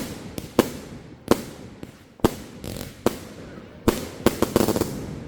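Fireworks going off: a string of sharp bangs about one every second, each trailing off briefly, with a quick flurry of smaller crackling reports about four seconds in.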